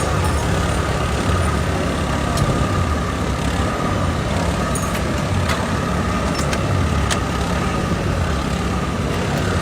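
Steady low engine rumble with a thin, steady whine above it and a few light clicks.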